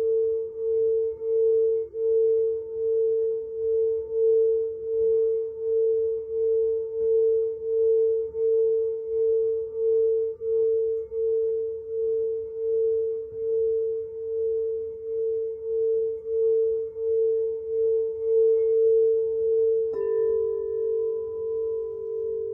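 A steady, sustained ringing tone that swells and fades about three times every two seconds. Near the end it switches suddenly to a slightly different set of tones.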